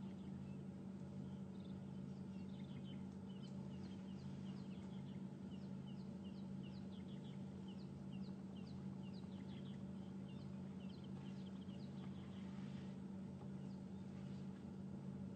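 Birds calling: quick runs of short, high, falling chirps, fading out near the end, over a steady low hum.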